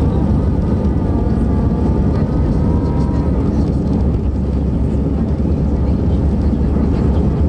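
Steady roar of a jet airliner heard from inside the passenger cabin: engine and airflow noise, with a faint whine that fades about three seconds in.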